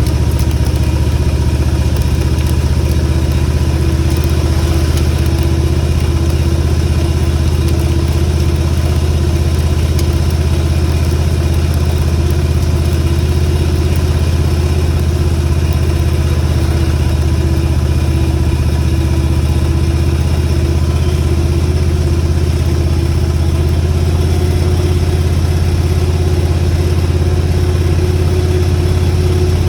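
Motorcycle engine running at a steady, unchanging speed while riding, with a constant hiss of wind and road noise over it.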